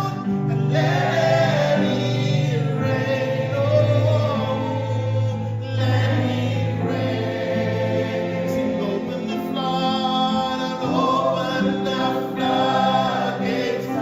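A choir or congregation sings a gospel worship song together, holding long notes over a sustained band accompaniment.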